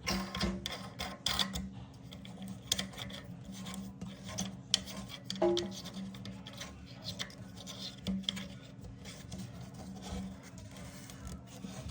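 Hard plastic scraping, rubbing and clicking in short irregular strokes as a plastic nut is threaded onto a toilet tank valve's shank and tightened by hand to seal against leaks.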